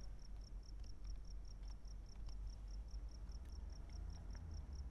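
A cricket chirping steadily, about four to five high chirps a second, over a low background rumble.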